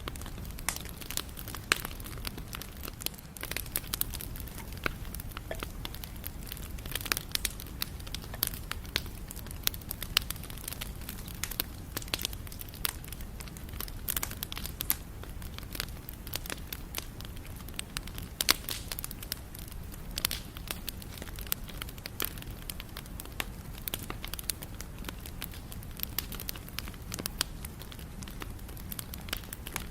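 Campfire burning wood, crackling and popping irregularly over a steady low rumble of flame.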